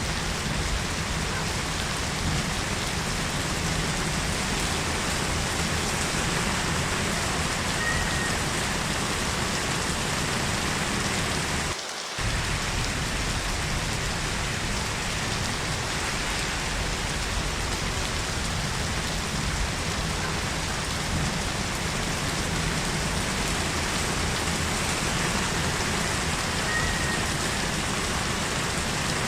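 Heavy rain falling steadily, a dense even hiss of drops, with a brief dip in level about twelve seconds in.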